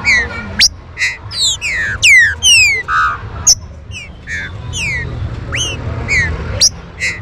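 Green-winged saltators (trinca-ferro) calling: a rapid, overlapping run of sharp whistled notes that slide steeply downward, several a second, with a few quick upward flicks, over a steady low rumble.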